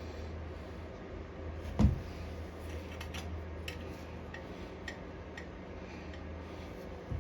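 Hand tools and small metal mower parts clicking and knocking during disassembly: a sharp knock about two seconds in, a run of light clicks, and another knock near the end.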